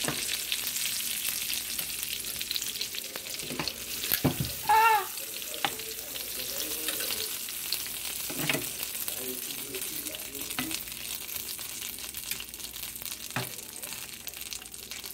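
Oxtail pieces sizzling in butter and oil in a nonstick skillet, still frying on the leftover heat of a switched-off burner, with sharp clicks as metal tongs lift pieces out of the pan. A brief pitched squeal about five seconds in is the loudest moment.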